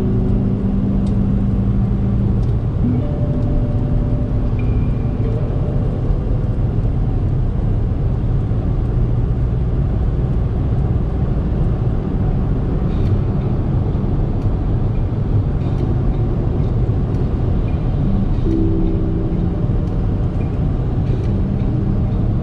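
Chevrolet S10 2.8 turbo-diesel four-cylinder pickup driving along, heard from inside the cabin: a steady low engine and road rumble.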